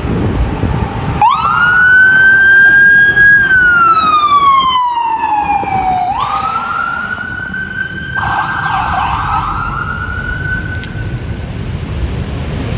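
An emergency vehicle's siren wailing. Its pitch rises fast, holds high, glides slowly down, then rises and holds again, with a second siren overlapping in the last few seconds. Engine and road rumble run underneath.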